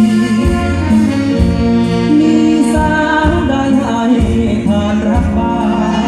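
Live band playing a slow song, with a sustained melody line over a slow, regular bass beat.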